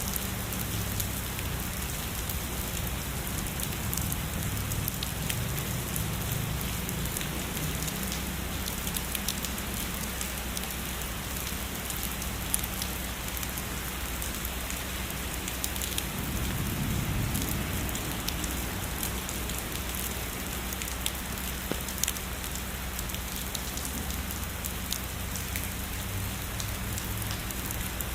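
Steady heavy rain falling on a surface, an even hiss sprinkled with many sharp individual drop taps. A soft low rumble swells briefly a little past the middle.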